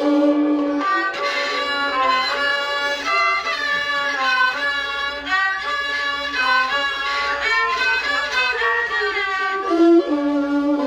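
Thai classical ensemble music: a continuous, moving melody on bowed fiddle and wind instruments.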